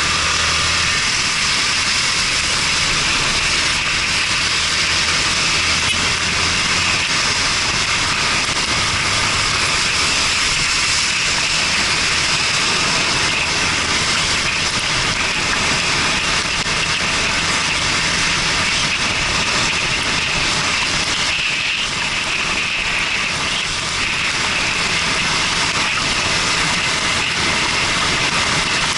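Steady rush of wind and wet-road noise over an action camera's microphone on a moving Yamaha Fazer 250 motorcycle, with the bike's single-cylinder engine running low underneath.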